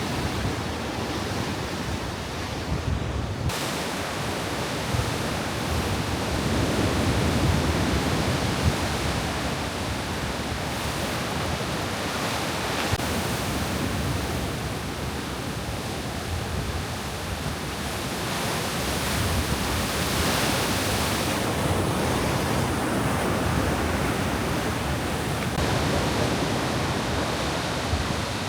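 Ocean surf breaking and washing on the shore in a steady, slowly swelling rush, with wind on the microphone.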